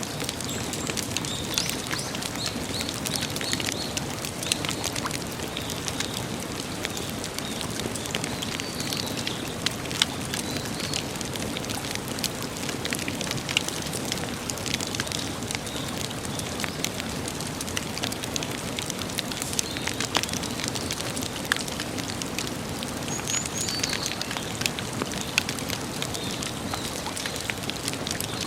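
Campfire crackling and popping steadily, with many small sharp snaps from the burning wood, and a few faint bird chirps.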